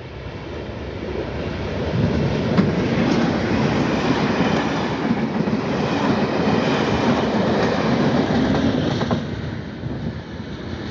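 Test train hauled by a Class 37 diesel locomotive passing close by: the locomotive's English Electric engine running and the wheels on the rails. It builds to a loud, steady rumble and falls away near the end.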